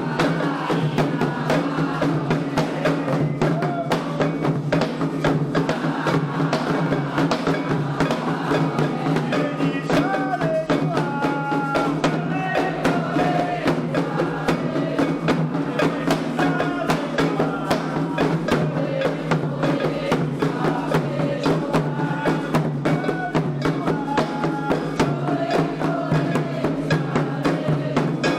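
Candomblé ritual drumming: atabaque hand drums beaten in a fast, steady rhythm with a struck bell or wood-like percussion, and voices singing at times.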